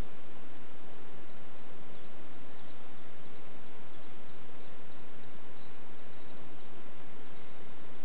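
A small songbird singing phrases of short, high, downslurred notes, one phrase about a second in and another about four seconds in, with a few more notes near the end. Under it runs a steady outdoor hiss.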